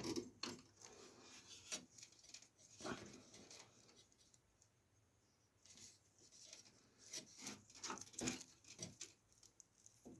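Faint, scattered clicks and rubbing of PC power cables and plastic connectors being handled inside the case, in small clusters with short gaps between them.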